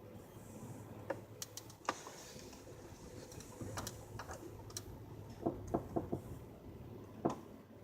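Irregular creaks and clicks from a 2007 Pontiac Grand Prix GT, with a quick run of four about two thirds of the way in and another sharp one near the end, over a steady low hum. The creak persists although new struts, lower control arms, hub assemblies, engine and transmission mounts and CV axles have been fitted, so its cause is still unknown.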